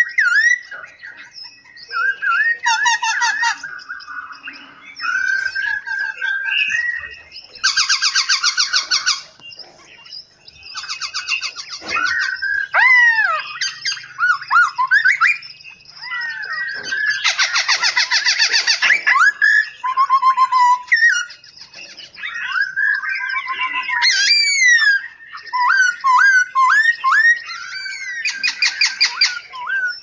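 Several songbirds singing at once: whistled notes and slurred, rising and falling calls, broken by loud, fast trills about ten seconds apart.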